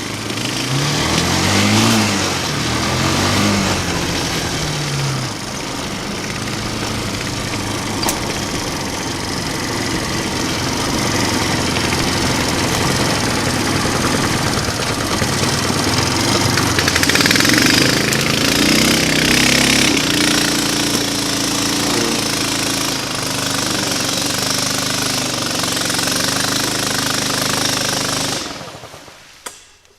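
420cc single-cylinder mini-bike engine, on a mini bike converted to a trike, running hard under load with the throttle opened and eased, its note rising and falling about a second in and again past the middle. The engine sound drops away abruptly near the end.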